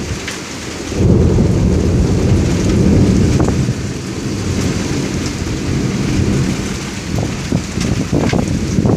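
Thunder rumbling, swelling sharply about a second in and easing off after a few seconds, over steady rain with scattered drop ticks.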